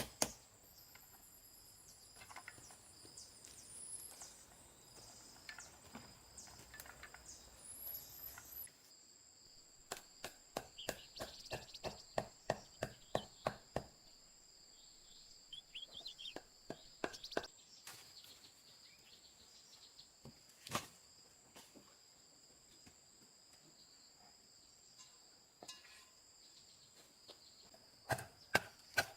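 Repeated chopping blows, about three a second, in runs of several seconds with pauses between, over a steady high buzz of insects.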